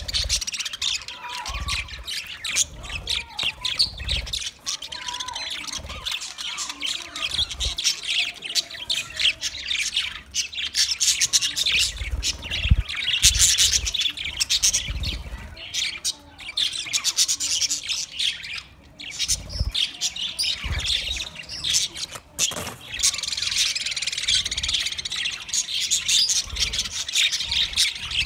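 A flock of budgerigars chirping, warbling and squawking all at once, a dense, continuous chatter, with short clicks and low thumps scattered through it.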